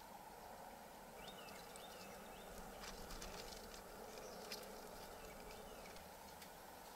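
Quiet woodland ambience with a few faint, short, high bird chirps and light ticks.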